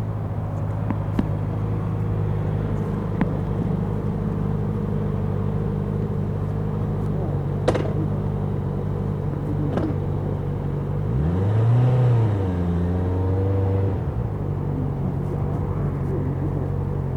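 Honda CBR650R's inline-four engine idling steadily, then blipped once about two-thirds of the way through: the pitch rises, falls and drops back to idle. A few faint clicks occur over the idle.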